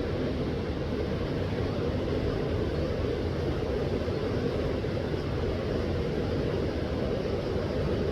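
Steady rushing of a flowing river, an even roar with no breaks.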